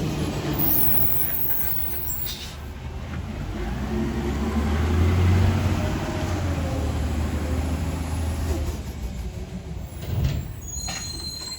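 Garbage truck engine running, growing louder about midway through and then fading away.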